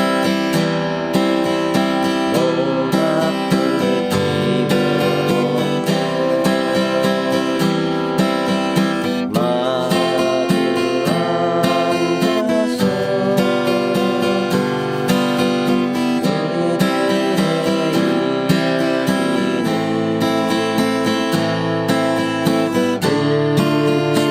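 Acoustic guitar strumming chords in 3/4 waltz time with the varied waltz pattern: a bass note on the first beat, then down-up strums splitting beats two and three into eighth notes.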